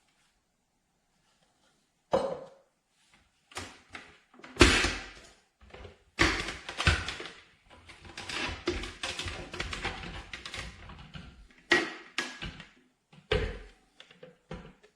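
A series of knocks and clunks from objects being handled, with a longer, denser stretch of rattling and scraping from about six to eleven seconds in.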